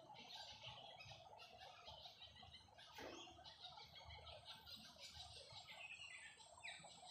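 Faint chorus of several birds calling and chattering over soft rain, with a sharp call about three seconds in and a couple of downward-sliding calls near the end.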